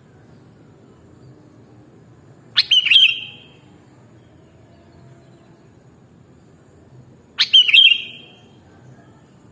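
Sooty-headed bulbul (kutilang) calling twice, about five seconds apart. Each call is a sharp chirp that runs into a brief held whistle, about half a second long, over a faint steady background hiss.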